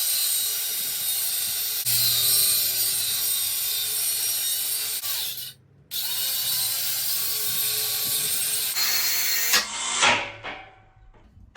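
Angle grinder working steel with a loud, hissing scream. It stops briefly about halfway through and starts again, then winds down with a falling whine near the end.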